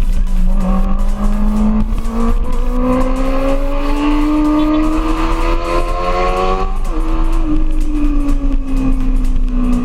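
Kawasaki ZX-25R's inline-four engine through an Akrapovic GP Evolution exhaust, revving steadily higher under acceleration for several seconds. The pitch drops sharply at a gear change about two-thirds of the way in, then eases down.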